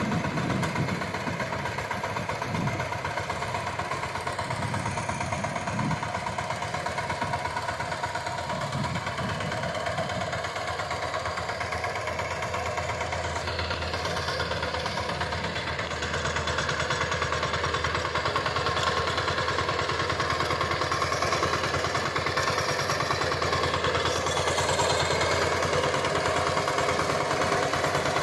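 VST Shakti power tiller's single-cylinder diesel engine running steadily, a little louder in the second half.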